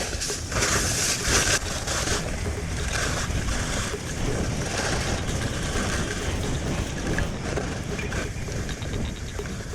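Strong wind buffeting the microphone, with skis hissing over snow; the high hiss swells in the first couple of seconds.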